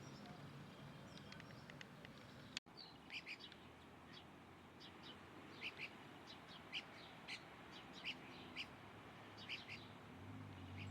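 Small birds chirping faintly, with short, high chirps repeated at irregular intervals over a light background hiss.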